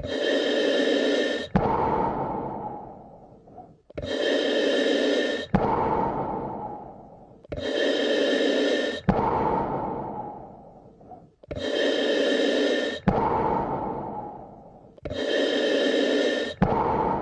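A person breathing slowly and evenly, about one breath every four seconds: each a louder rush of air that stops abruptly with a small click, followed by a softer breath that fades away. The same breath repeats identically about five times.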